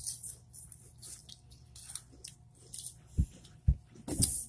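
Someone crunching and chewing spicy chips close to the microphone: irregular crisp crunches, with two dull low thumps a little after three seconds in.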